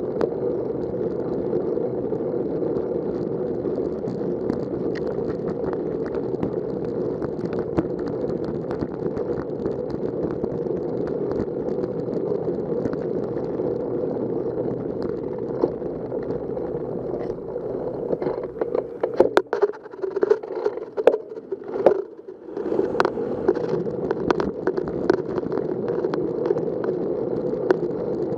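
Steady rushing wind and tyre noise from riding a bicycle, heard from a camera on the bike or rider. Near the end the rush drops away for about three seconds, broken by a run of clicks and knocks, before coming back.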